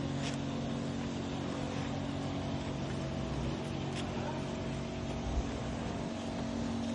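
A steady engine hum: several held low tones over a rumbling noise, with one dull thump about five seconds in.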